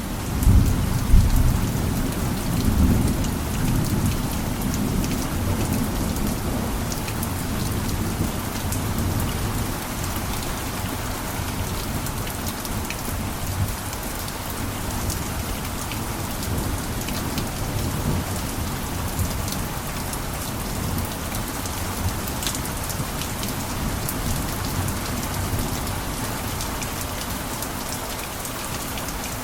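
Heavy rain falling steadily, an even hiss with scattered sharp drop ticks. A deep low rumble swells about a second in and fades over the next few seconds.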